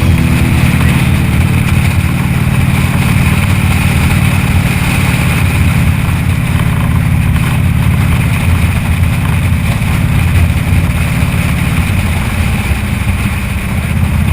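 Motorcycle engine running steadily while riding, with wind and road noise over it.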